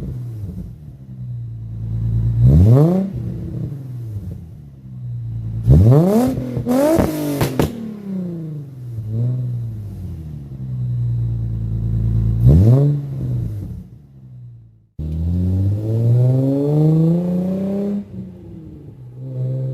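Infiniti G35 sedan's 3.5-litre V6 through an ISR GT cat-back exhaust with Y-pipe and resonated test pipes, idling and being blipped: quick sharp revs about three, six and twelve seconds in, the one at six a double blip. After a sudden break near fifteen seconds comes a slower, longer climb in revs.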